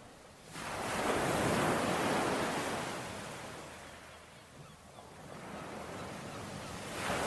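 Ocean waves washing onto the shore: one wave surges in about half a second in and fades away over a few seconds, and the next builds near the end.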